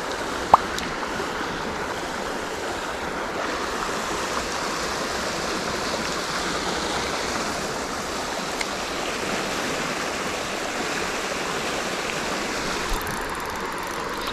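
Steady rushing of a flowing creek. One short high chirp sounds about half a second in.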